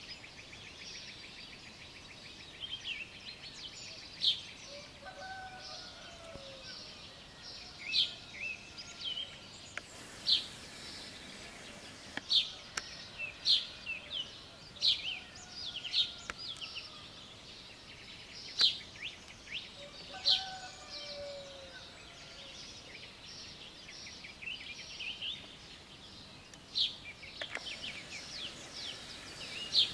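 Small songbirds chirping and calling over and over. A distant rooster crows twice, about five seconds in and again about twenty seconds in.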